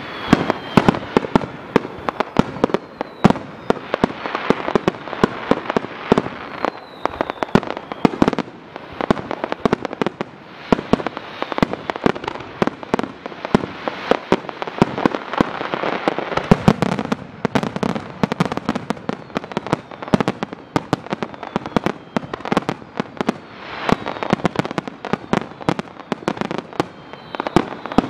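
Aerial fireworks barrage: a rapid, unbroken run of shell bursts and bangs overlapping one another, with crackle between them and a few high falling whistles.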